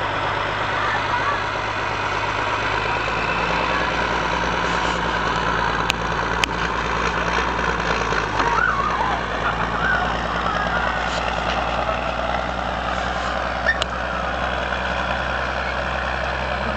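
M35A2 deuce-and-a-half army truck's multifuel diesel engine running steadily, with a few sharp clicks about six seconds in and again near the end.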